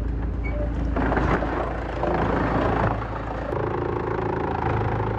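Heavy-duty wood chipper running under load: a steady low engine drone, with louder rough noise of wood being shredded between about one and three seconds in, then settling into a steadier hum.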